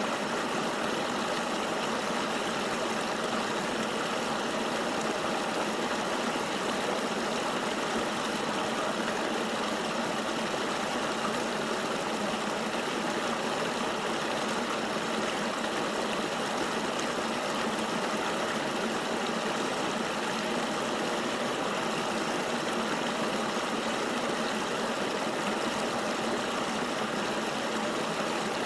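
Flowing river water rushing steadily, an even hiss that holds the same level throughout, with little deep rumble.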